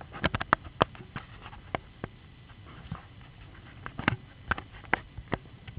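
Irregular sharp taps and clicks: a quick cluster in the first second, a few scattered ones, then another cluster about four to five seconds in.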